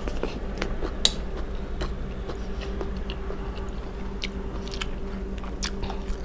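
A person chewing a mouthful of food close to a clip-on microphone, with scattered small clicks and wet mouth sounds, over a steady low hum.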